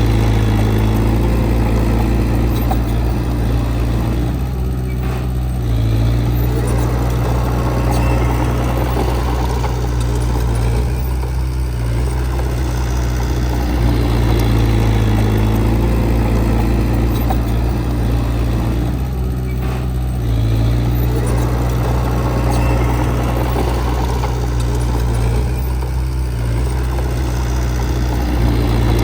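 Heavy diesel engine of earthmoving machinery running under load, easing off briefly every six to eight seconds and then pulling again.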